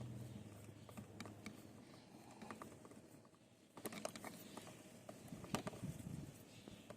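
Faint, scattered clicks and light knocks of small parts being handled, with a busier run of clicks about four seconds in.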